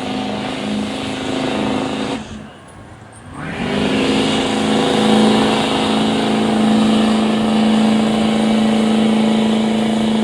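Stock diesel pickup truck's engine running hard at high revs while pulling the sled. About two seconds in, the engine note drops away for about a second, then climbs back up and holds steady.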